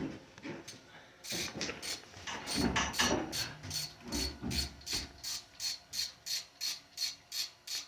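Socket ratchet wrench being worked, its pawl clicking in a steady rhythm of about three clicks a second.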